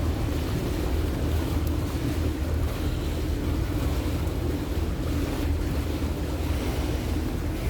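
Boat under way at sea: wind buffeting the microphone and water rushing past the hull over a steady low drone.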